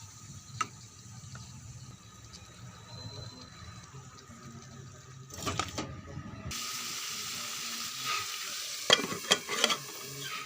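Chicken frying in a pan, with the sizzle becoming loud and steady about six and a half seconds in. A utensil stirs and clatters sharply against the pan several times near the end.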